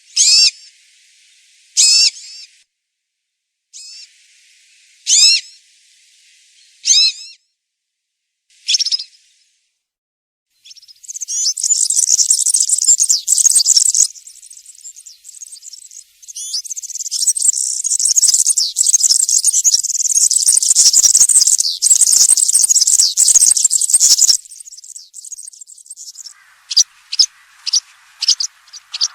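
European serin singing: a few short, high call notes a second or two apart, then, about eleven seconds in, its rapid, high-pitched jingling song in two long runs of several seconds each, followed by scattered short notes near the end.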